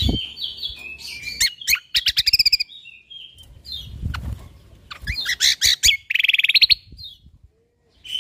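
Cucak kombo (kecial kombok) songbird singing in bursts of sharp chirps and fast trills, with a rapid buzzy trill about six seconds in. The song stops briefly just before the end.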